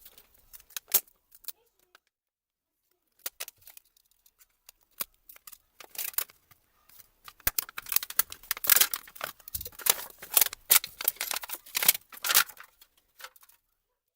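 Sharp plastic clicks and scraping from a laptop keyboard being taken apart by hand. There are a few scattered clicks, then a dense run of rapid clicking from about halfway through, which stops shortly before the end.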